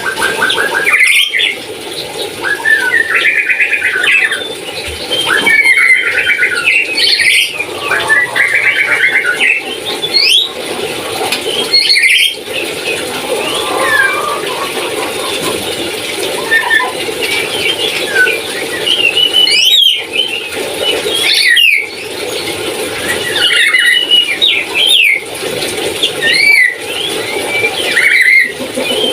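A nuri (lory parrot) calling over and over, a run of squealing, chirping notes with quick rises and falls in pitch, every second or two.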